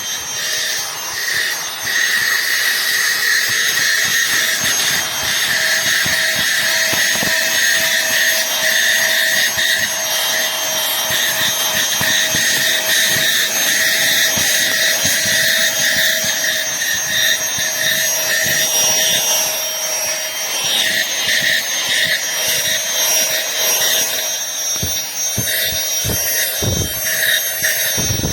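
Aspiron cordless handheld vacuum cleaner running steadily: a high motor whine over the rush of air through the nozzle. Near the end come a few sharp knocks as the nozzle bumps against something.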